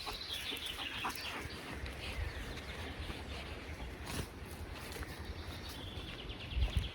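Bird calls: a falling series of notes about a second in, and a rapid run of repeated chirps near the end.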